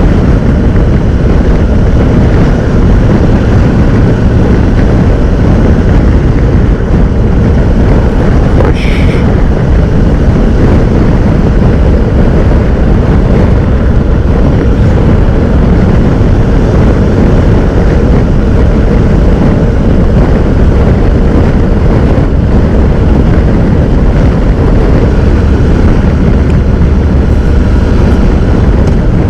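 Honda NC750X parallel-twin motorcycle cruising at road speed: a steady engine drone under constant wind and road rush. A brief higher-pitched sound comes through about nine seconds in.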